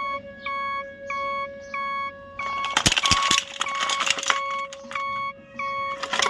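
Short electronic beeps repeating about twice a second over a steady tone. From about a third of the way in they are joined by a burst of clicking and clattering.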